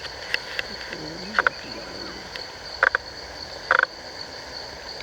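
Frogs croaking in short doubled pulses, three times, over a steady high-pitched insect drone.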